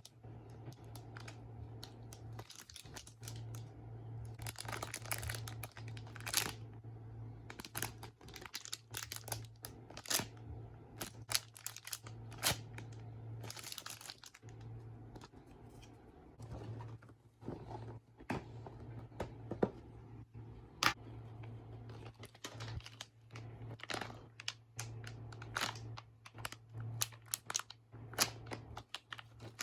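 Irregular crinkling and rustling with scattered sharp clicks and taps as squishy toys and their plastic packaging are handled, over a low steady hum.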